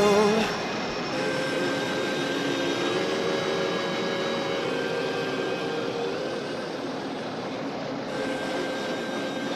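A train running on rails: a steady rolling rumble with several high, steady whining tones held over it.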